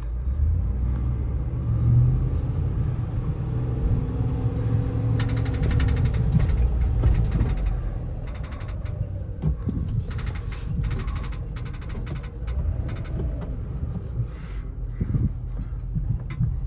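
The Ram 5500's 6.4-litre gasoline Hemi V8 running at low speed, heard from inside the cab as a steady low rumble, with a faint held tone partway through. Scattered light clicks and rattles from the cab come from about five seconds in.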